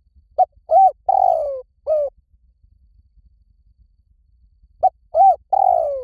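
Spotted dove cooing: two calls about four seconds apart, each a short run of low coos with a long falling coo in the middle.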